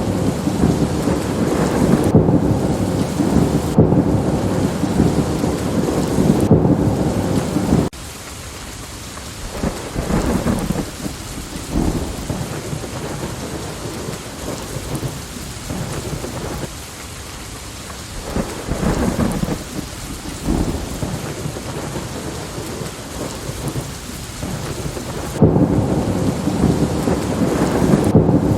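Thunderstorm: rain falling with rumbling, crackling thunder. A loud rumble drops off suddenly a little over a quarter of the way in, leaving quieter rain broken by a few short crackles of thunder, then the loud rumble comes back suddenly near the end.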